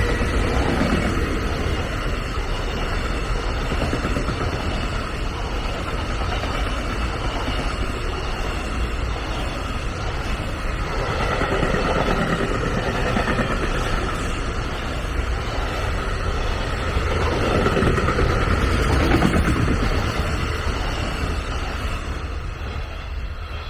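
A train running past on the line, with a steady rumble of wheels on rail and some faint whining tones; it fades away near the end.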